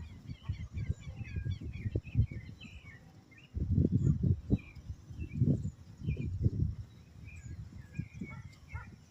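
Several small birds chirping and singing at once, short overlapping notes that go on all through. Louder, irregular low rumbles come and go underneath, like wind buffeting the microphone.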